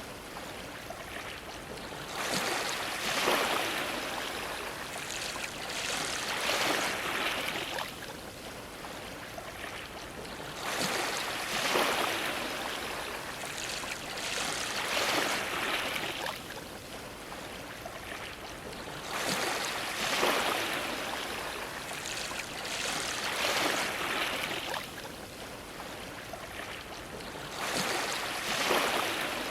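Ocean waves washing against a dock: a swell of splashing water rises and falls every few seconds over a steady wash.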